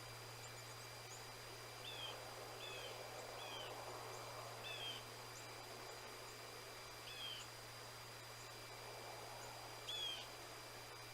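A small bird giving short, sharp call notes, six of them at irregular intervals, over a steady low hum and faint background hiss.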